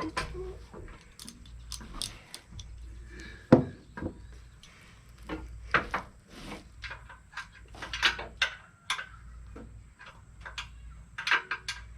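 Hand tools clinking and knocking against metal in an irregular run of short clicks, with one sharp knock about three and a half seconds in, as bolts are worked on an engine's accessory bracket.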